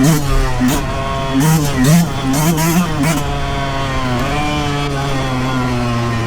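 Yamaha YZ125 single-cylinder two-stroke engine on a trail ride. For the first three seconds the throttle is blipped rapidly, the pitch jumping up and down, with sharp clattering knocks over it. From about four seconds in it runs at a steadier, lower pitch that slowly falls.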